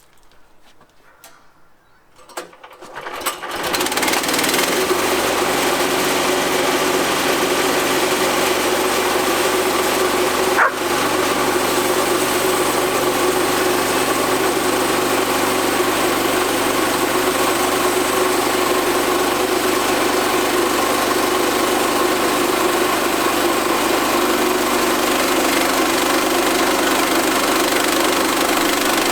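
Portable band sawmill's engine coming up to speed over about a second and then running steadily at high revs. A single brief knock sounds about a third of the way through.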